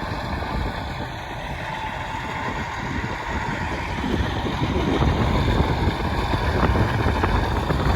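Vehicle engine and road noise while driving, growing louder about halfway through.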